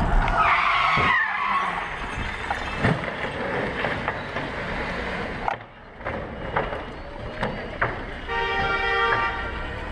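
Car road and engine noise heard from a dashcam, with tyres squealing in the first second or so. Near the end, a flat held tone sounds for about a second, like a car horn.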